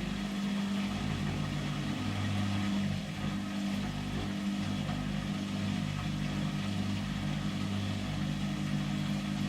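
Samsung front-loading washing machine's drum spinning at speed in its intermediate 800 rpm spin, a steady motor hum with several held tones.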